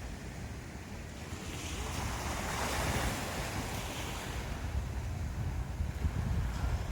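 Sea waves breaking and washing up on the shore, with one wave swelling louder about two to three seconds in. Wind rumbles on the microphone underneath.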